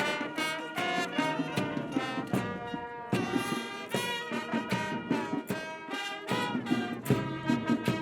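Brass band music: trumpets and trombones playing held notes over a steady drum beat.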